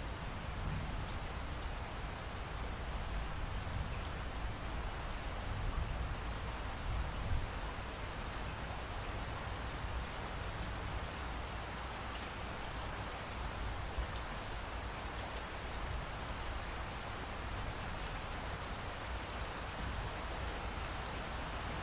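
Steady rainfall, an even hiss of drops with a low rumble underneath.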